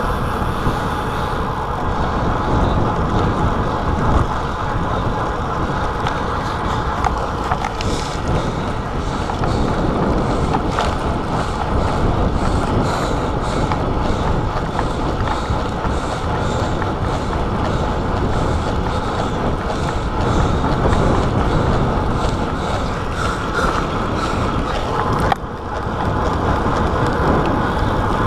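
Wind rushing over a chest-mounted GoPro's microphone on a moving bicycle: a steady, loud rushing noise that dips briefly near the end.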